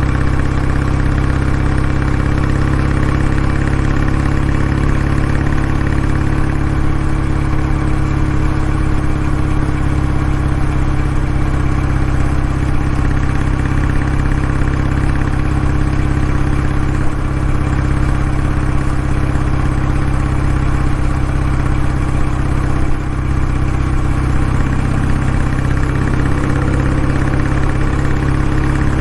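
Kawasaki W650 motorcycle's air-cooled parallel-twin engine running steadily through its exhaust, a deep even note with no change in speed.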